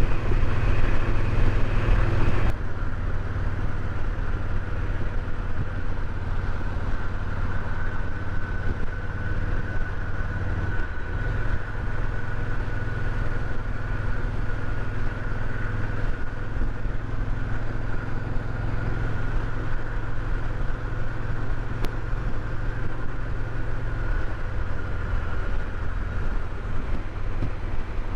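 Motorcycle engine running steadily at highway speed, with wind noise over the microphone; the sound drops abruptly in level about two and a half seconds in.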